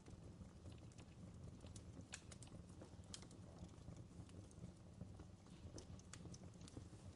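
Campfire crackling faintly, with irregular sharp pops and snaps from the burning wood over a low steady rumble.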